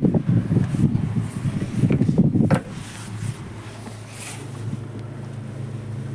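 Wind buffeting the microphone for about the first two and a half seconds, then a steady low hum of a vehicle engine idling.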